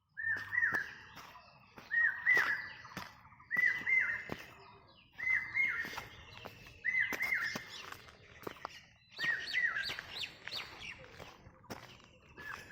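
A songbird repeating the same short whistled phrase about every two seconds, six times, with quicker high chirps from other birds between the phrases.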